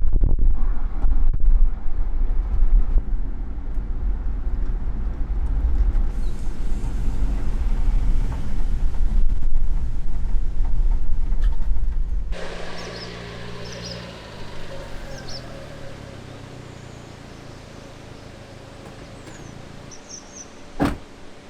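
A loud, low rumbling noise for about twelve seconds cuts off suddenly. A quieter outdoor scene follows, with scattered bird chirps over a faint low hum and one sharp click near the end.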